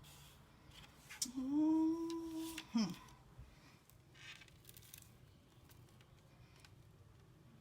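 A person humming one held note for about two seconds, sliding down in pitch at the end, with a few light clicks around it; the rest is faint room tone.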